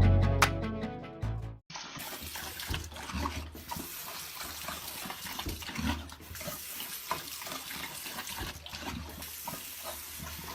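Guitar music ends about a second and a half in; then water runs and splashes steadily, with many small knocks and clicks through it.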